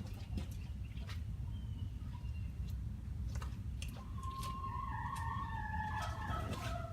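Scattered light clicks and knocks of the Mule's drive clutch being worked against its splined shaft, where it is sticking, over a steady low hum. A faint wavering high tone joins about four seconds in.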